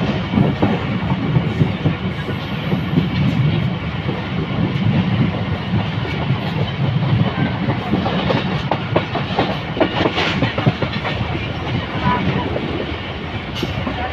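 Passenger train running, heard from on board a coach: a steady low rumble of wheels on the track with irregular clatter.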